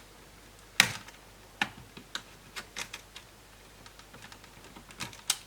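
Sharp plastic click about a second in, then a scatter of lighter clicks and taps, with two more near the end: a laptop's internal speaker cable being unplugged and the speakers lifted out of the plastic chassis.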